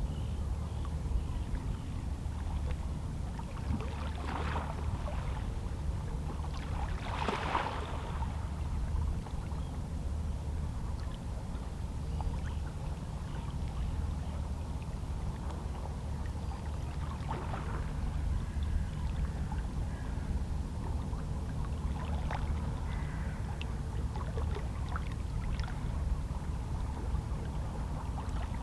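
Small waves on a calm sea lapping and splashing against shoreline rocks, over a steady low rumble of water. The clearest splashes come about 4 and 7 seconds in, with softer ones later.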